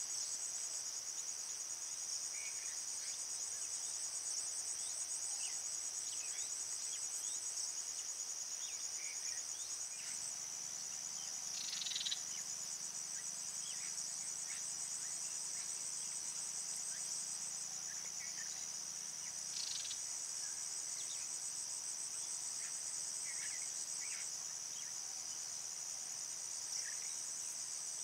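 A chorus of crickets trilling steadily and high-pitched, with short faint chirps scattered over it and a brief louder buzz about twelve seconds in.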